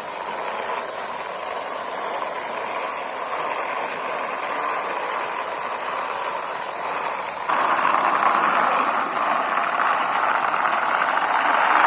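Toy bus pushed along by hand, its wheels rolling with a steady noise that gets louder about seven and a half seconds in.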